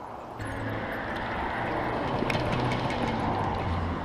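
A steady rushing noise of riding a bicycle, mixing wind on the microphone with road and traffic noise. It starts abruptly about half a second in.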